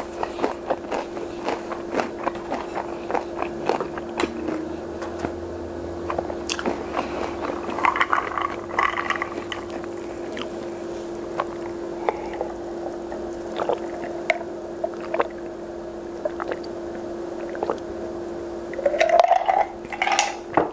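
Close-miked chewing of the last bite of fish stick, with many small wet mouth clicks, then swallowing sounds while drinking from a glass about eight seconds in, and a louder burst of mouth sound near the end. A steady low hum runs underneath.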